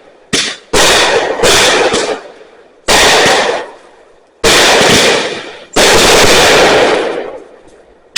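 Fireworks going off close by: about six loud bangs in quick succession, each trailing off over about a second before the next.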